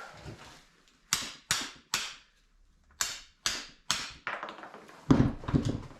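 Sharp metal-on-metal knocks from tool work on a Ford 460 big-block engine, two quick sets of three strikes. A heavier, duller clatter of metal parts follows near the end.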